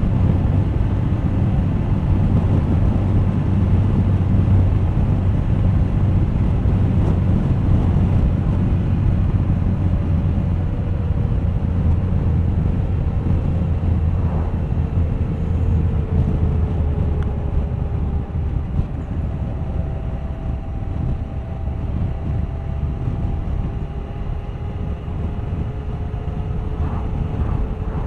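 Suzuki GSX1250FA's inline-four engine running on the move, with wind rushing over the microphone. The engine note eases slowly downward over the second half.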